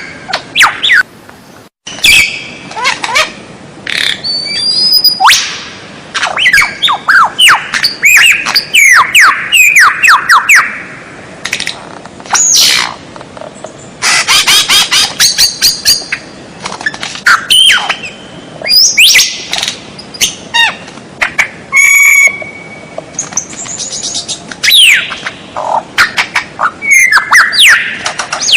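White-rumped shama (murai batu) singing a fast, varied song of quick whistles, sweeping notes and rough, noisy calls, with only brief gaps.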